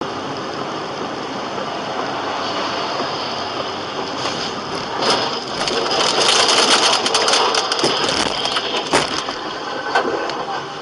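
Road noise of a moving car heard through a dash camera. About five seconds in it grows louder, with a dense crackle and a few sharp knocks.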